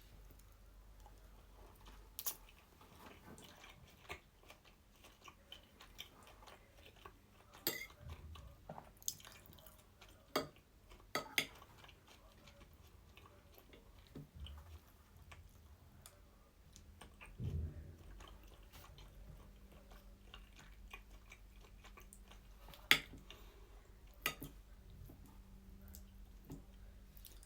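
Close-up chewing and eating of a pasta salad with chicken and barbecue sauce, with scattered sharp clicks and a few soft low thumps.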